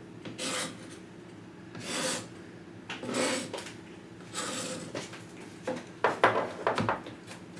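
Four scraping strokes across a cutting board, about a second apart, then a quick run of clicks and knocks as kitchenware clatters near the end.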